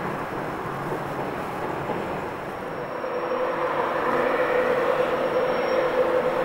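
Passenger trains on a steel lattice-girder railway bridge: a steady running rumble, then about halfway through a steady high whine sets in and grows louder as an electric InterCity train comes onto the bridge.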